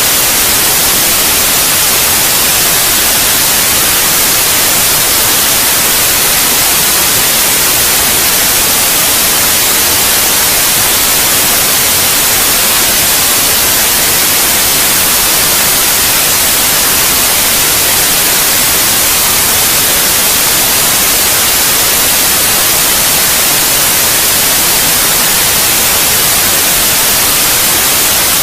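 Steady white noise: an even, unchanging hiss, loudest in the high frequencies, with no drops, clicks or tones in it.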